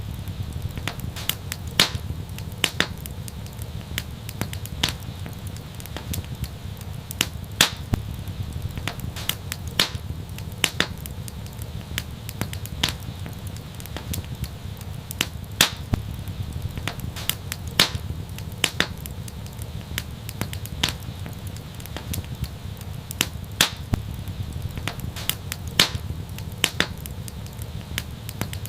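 Fireplace fire crackling, with irregular sharp pops, a few of them louder, over a low steady rumble of the flames.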